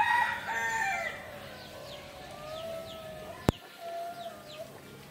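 A rooster crowing, loudest in the first second, followed by a fainter drawn-out crow. Small birds chirp in short falling notes throughout, and a single sharp click sounds about three and a half seconds in.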